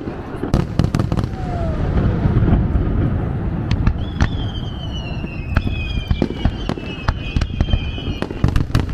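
Fireworks display: many sharp bangs and crackles over a continuous low rumble of bursts, with a long falling whistle from about four seconds in.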